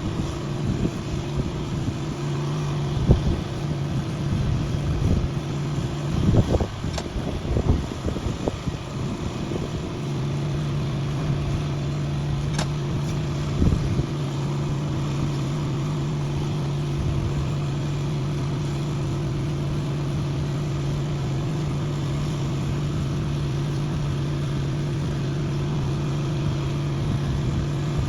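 An engine running steadily at idle, a constant low hum. The hum drops out for a few seconds about six seconds in, and a handful of sharp knocks and clanks sound in the first half.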